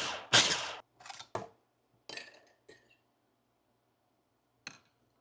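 Food processor pulsing a pie-crust mix of flour and cold butter: the last of a series of short whirring pulses, then a few light plastic clicks and clinks from the bowl and lid, and a single click near the end.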